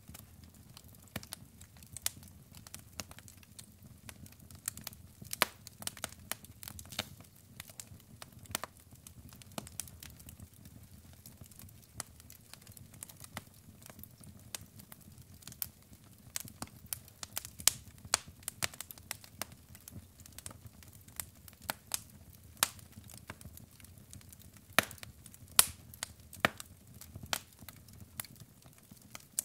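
Burning logs in a fireplace crackling, with irregular sharp pops and snaps over a low steady rumble of the flames.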